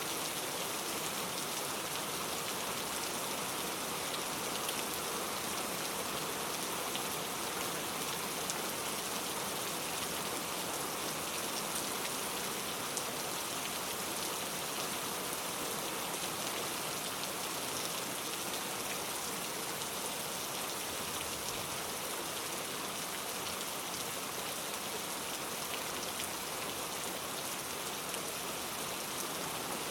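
Steady heavy rain falling on a surface, a constant even hiss with the patter of individual drops and no thunder.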